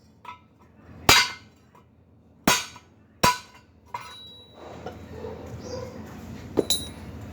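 Hammer blows on steel during foundation-bolt welding work: a few sharp, ringing metallic knocks at uneven intervals, the last a quick double.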